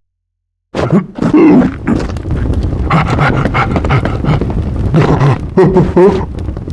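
Animal calls, coming in suddenly after a moment of silence and continuing densely.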